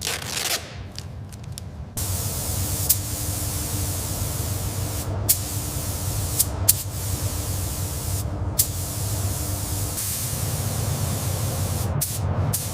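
A steady spray hissing loudly, starting abruptly about two seconds in with a few brief breaks, over a low rumble.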